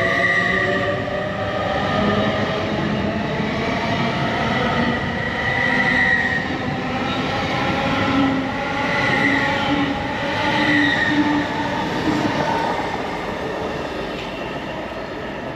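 A train moving through a station, with several steady high tones over the rumble that drift slightly in pitch; the sound eases off toward the end as it moves away.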